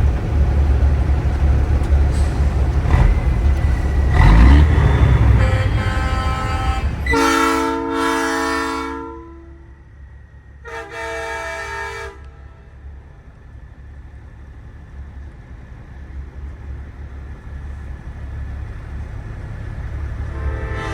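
Nathan AirChime P3 train horn on a big rig blowing a loud chord twice: a blast of about two seconds, then a shorter one just over a second later. Before the horn, the truck's diesel engine runs with a low rumble.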